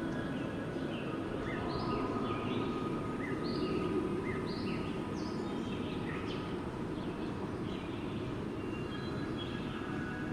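Steady wind blowing, with many short bird chirps over it that thin out in the last few seconds.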